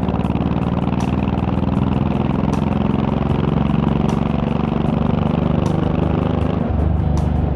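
Honda VTX1800's 1800 cc V-twin running under way, its exhaust note steady and deep, with a change in the note near the end.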